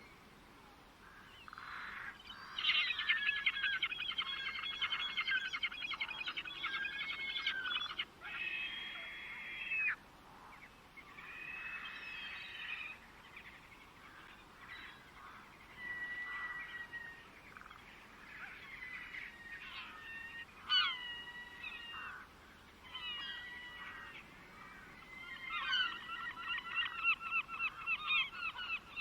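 Birds singing: fast chattering trills and whistled notes that glide up and down. There is a loud burst of trilling early on, scattered calls through the middle, and dense trilling again near the end.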